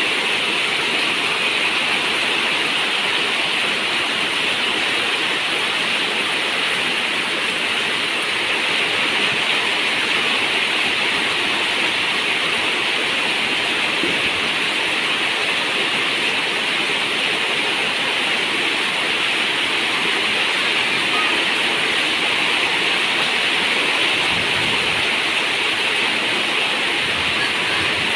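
Steady heavy rain, a dense even hiss without separate drops standing out.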